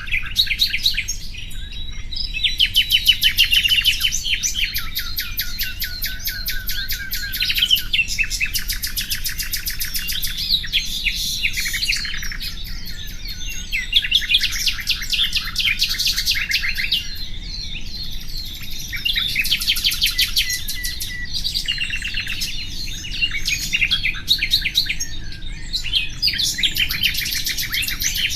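Common nightingale singing: phrases of fast repeated notes and trills lasting a few seconds each, separated by short pauses.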